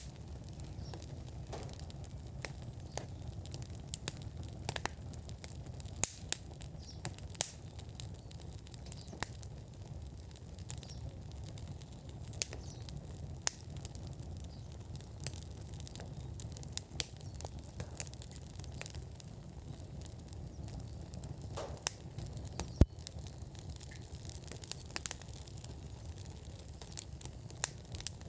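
Outdoor wood fire in a fire pit at full burn, crackling with frequent sharp pops over a steady low rumble; one pop about 23 seconds in is louder than the rest.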